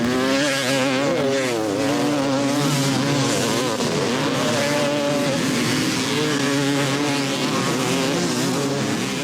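A pack of motocross motorcycles racing together, many engines revving up and down at once and overlapping in a loud, continuous drone.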